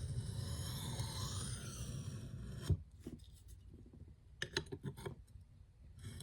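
Nitro-V steel knife edge stroked across a whetstone in light alternating freehand passes, refining the apex: continuous gritty scraping for the first couple of seconds ending in a sharp click, then a few quick taps before the scraping starts again near the end.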